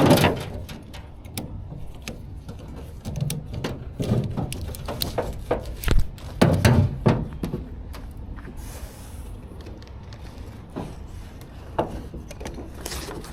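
Irregular knocks, clicks and rubbing of gear being handled, with a few heavier thumps about four to seven seconds in.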